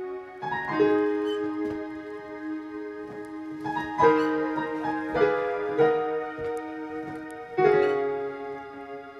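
Background piano music: slow chords struck every second or two and left to ring.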